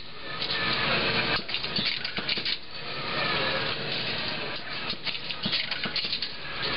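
Automated bicycle wheel-building machine running, a steady mechanical noise with many short clicks and rattles.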